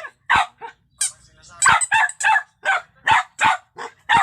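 Puppy barking in a rapid string of about ten short, sharp yaps.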